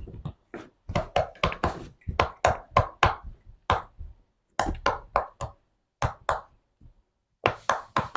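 Slime being pressed and poked by hand, making a quick irregular run of sharp, sticky clicks and pops, two to four a second, with short pauses about four seconds in and again near seven seconds.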